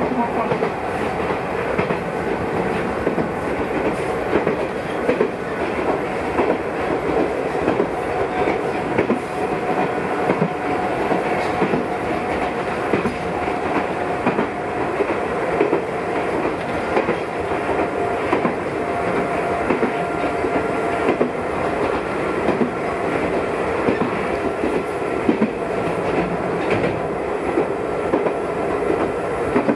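Ichibata Electric Railway local electric train running along the line, its wheels clicking regularly over the rail joints above a steady running noise with a constant tone.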